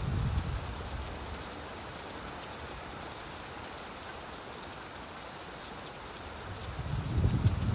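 Steady rain, with a low rumble of thunder dying away in the first moment and swelling again near the end.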